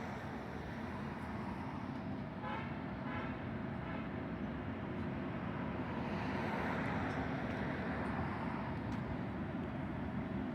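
A train running past with a steady rumble that builds to its loudest about six or seven seconds in. A brief, pulsing toot sounds about two and a half seconds in.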